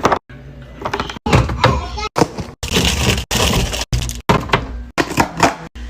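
A quick run of knocks, clinks and rustles from containers and packaged food being handled and set down while restocking a fridge. The sounds are cut into short snippets, each broken off abruptly every half second or so.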